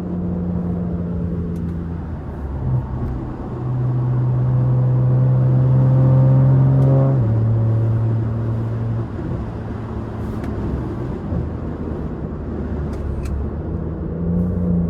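Straight-piped, catless BMW 540i B58 inline-six pulling under load, its note getting louder and climbing slowly, then dropping in pitch at a gear change about seven seconds in, and settling to a steady cruise.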